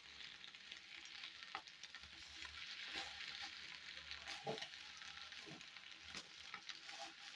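Egg pieces frying in a pan with a faint steady sizzle, and a few soft scrapes and taps of a spatula stirring them.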